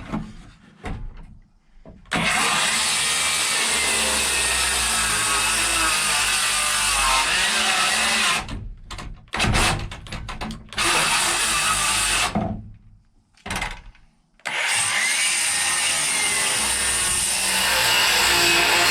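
Power saw cutting wood, running for about six seconds, then a few short bursts, then cutting again for the last few seconds.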